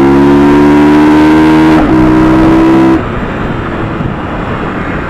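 Motorcycle engine pulling hard under throttle, its pitch slowly rising, with a brief break just before two seconds in. About three seconds in the throttle is shut and the engine note drops away, leaving wind rush.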